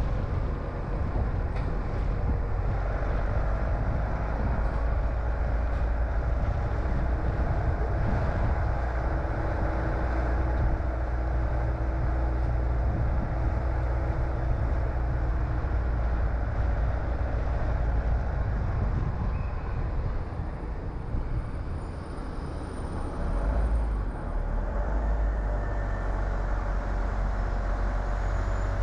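Car driving along a town road: steady engine and tyre road noise with a heavy low rumble. It eases off for a few seconds about two-thirds of the way through, then picks up again.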